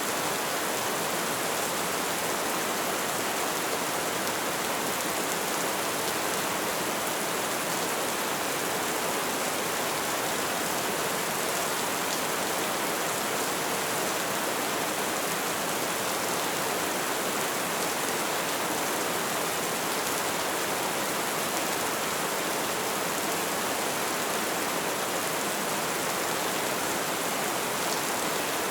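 Light rain falling, a steady even hiss of drops without breaks or single loud impacts.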